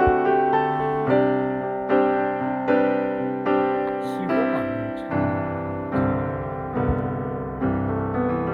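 Background piano music: chords and notes struck about once a second, each dying away before the next.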